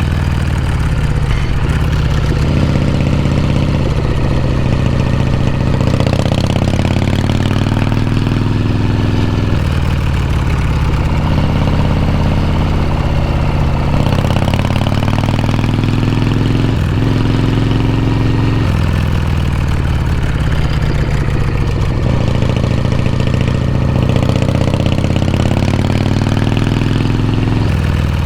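Harley-Davidson Shovelhead V-twin's exhaust under way, engine speed climbing and dropping again and again as the bike pulls and eases off.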